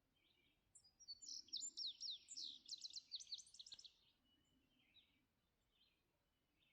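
A songbird sings one fast song of high, quick downward-sweeping notes, starting about a second in and lasting about three seconds, with fainter bird calls scattered around it.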